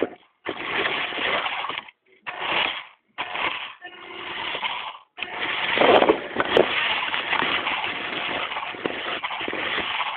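Small electric motor and gears of an XMODS radio-controlled toy truck, heard from a camera riding on it. It runs in three short spurts with brief stops, then runs steadily from about five seconds in.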